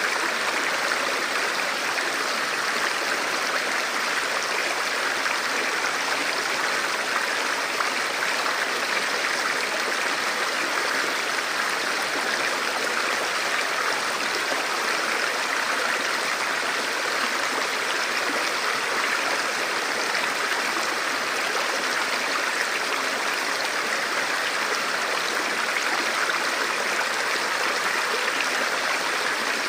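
Forest stream flowing in a steady, even rush of running water.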